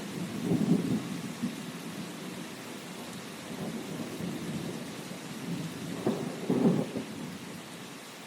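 Steady rain hissing, with low rumbles of thunder swelling about a second in and again about two-thirds of the way through.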